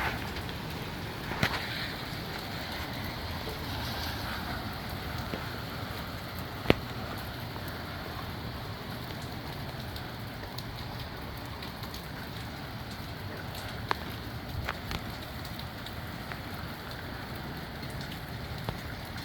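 Steady heavy rain with gusty wind, the rush easing a little after the first few seconds. A few sharp taps cut through it, one louder than the rest about a third of the way in.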